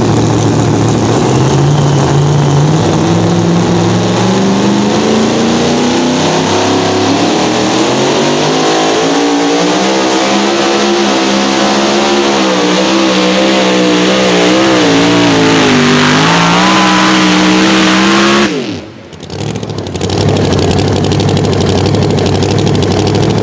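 Competition pulling tractor or truck engine at full power on a pull: its pitch climbs steadily and then wavers up and down as it works against the sled, before falling away. About nineteen seconds in the sound drops out briefly, and then an engine runs steadily at a much lower pitch.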